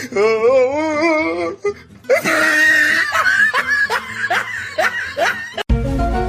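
A person laughing: first a wavering, warbling laugh, then a run of short breathy laughs. Near the end it cuts off abruptly and music begins.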